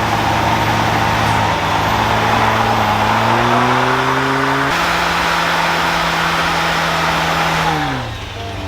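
Pickup truck doing a burnout: its gasoline engine held at high revs over the steady hiss of spinning tyres. The revs climb about three seconds in, then drop away near the end.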